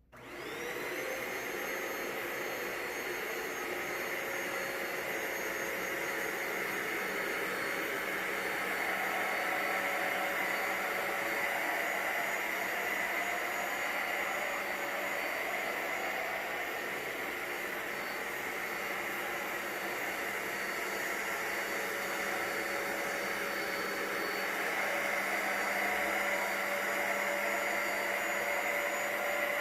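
Bissell ProHeat 2X Revolution Pet carpet cleaner switching on. Its motor whine rises as it spins up over about the first second, then it runs steadily with a high whine over a rush of air.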